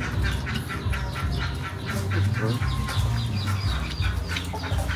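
Close-up crunching of raw green onion stalks being bitten and chewed, a quick run of crisp crunches several a second.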